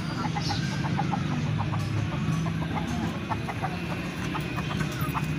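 Chickens clucking, many short rapid calls, over a steady low hum.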